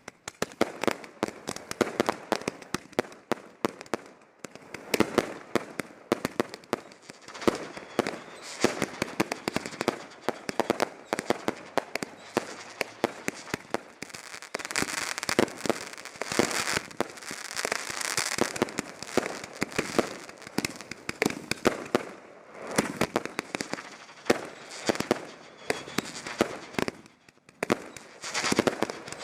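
Consumer fireworks going off in quick succession: an unbroken stream of sharp bangs and crackling, busiest and loudest around the middle and again near the end.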